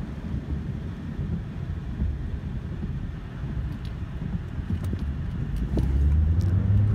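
Car cabin noise of a Ford Focus on a wet road: a steady low rumble from the tyres and engine. Near the end the engine revs up with a rising pitch as the car is floored on purpose and the tyres slip a little.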